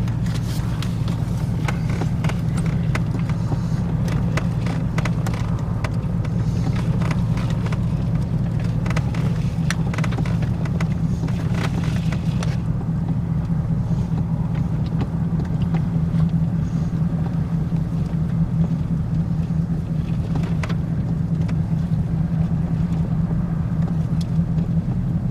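A car's engine and tyres droning steadily, heard from inside the cabin as it rolls slowly over a bumpy drive. Scattered knocks and rattles come mostly in the first half.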